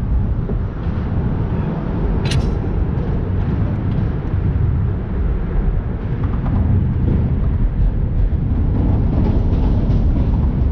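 Wind buffeting the camera microphone: a steady low rumble, with one sharp click about two seconds in.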